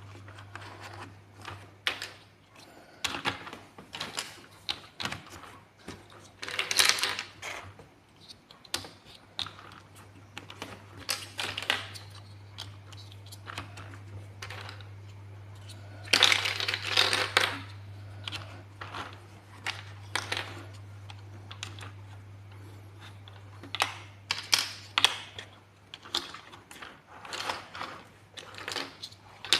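Plastic building blocks being handled and pressed together: irregular clicks and taps, with two louder spells of clattering about seven and sixteen seconds in, over a steady low hum.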